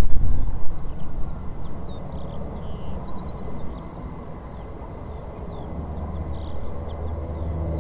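Jet aircraft noise, a low rumble loudest at the start and fading over the first few seconds, with a steadier low rumble building again near the end. Small birds chirp throughout.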